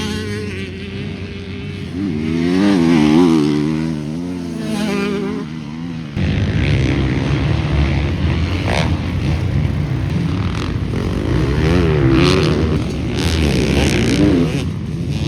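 Motocross dirt bikes racing on a dirt track, engines revving up and down as the riders work the throttle. About six seconds in the sound changes abruptly to several bikes overlapping.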